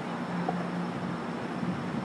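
Amtrak train standing at the station, its engine running with a steady hum and rumble.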